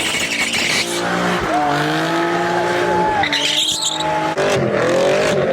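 Car engine revving hard while its tires squeal and skid, with the pitch wavering up and down, as in a donut or burnout.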